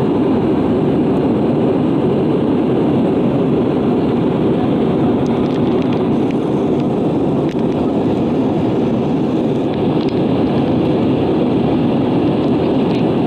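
Steady cabin noise of an Airbus A320 airliner in flight: an even, loud rush of airflow and engine sound with no change in pitch.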